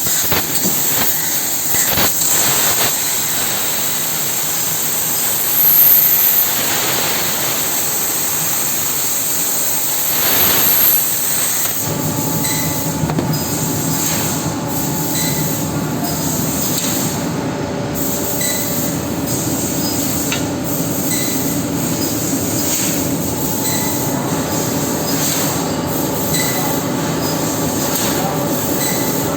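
Fiber laser cutting machine running with compressed-air assist gas: a steady rush of hissing noise, swelling briefly twice, with a lower hum joining about twelve seconds in.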